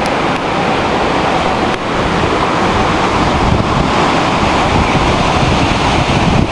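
Heavy rain from a sudden storm pouring down in a steady downpour, with wind buffeting the microphone.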